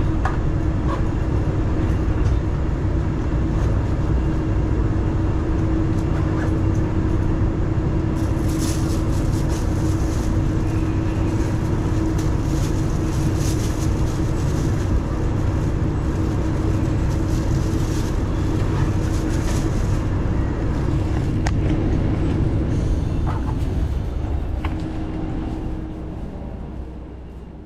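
Hitachinaka Seaside Railway diesel railcar running, a steady engine drone over a low rumble, with a stretch of brighter hiss in the middle. The sound fades out near the end.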